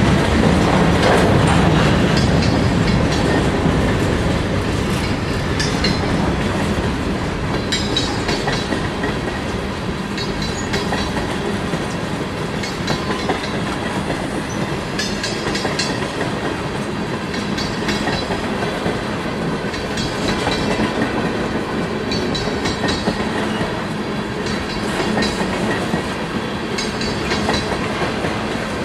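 Freight train cars, tank cars and covered hoppers, rolling past close by: a steady rumble of steel wheels on rail, with clusters of clicks every two or three seconds as the wheel sets cross rail joints.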